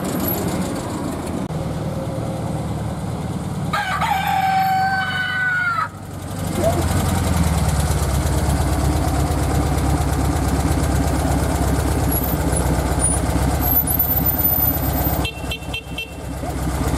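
Vintage cars' engines running as they crawl past in slow traffic, the low rumble growing louder after about six seconds. About four seconds in, a crow like a rooster's sounds for about two seconds, its pitch bending down at the end.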